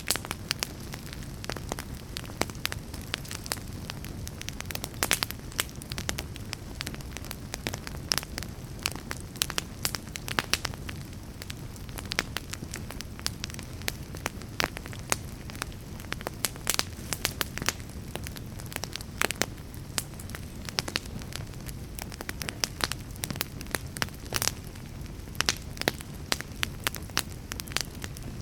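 Fire crackling: a steady low rumble of burning under frequent sharp, irregular pops and snaps.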